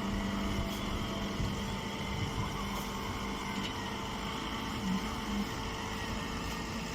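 Chopped-hay compress baling machine running: a steady machine hum with a few constant tones and no pauses.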